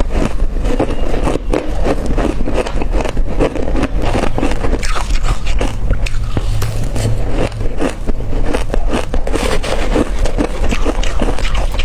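Close-up crunching of hard crushed ice being bitten, a dense, continuous run of sharp cracks and crackles.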